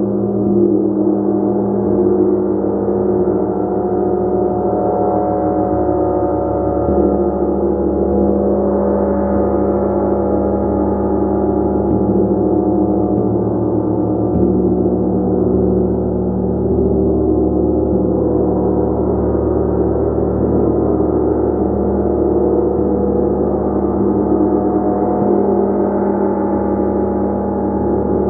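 A gong played continuously, giving a dense, sustained wash of many overlapping ringing tones that swell slightly now and then.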